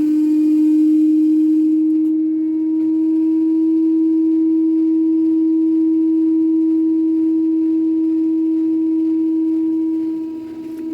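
Daewoo direct-drive inverter washer-dryer spinning at high speed with a loud, steady humming tone that dips briefly near the end. The noise is not from the drum bearings; it is traced to a faulty Hall sensor on the motor stator.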